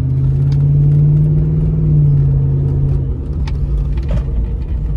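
Pickup truck's loud exhaust heard from inside the cab as the engine pulls under acceleration, its pitch rising slightly over the first two seconds. About three seconds in the pitch drops and the sound eases off.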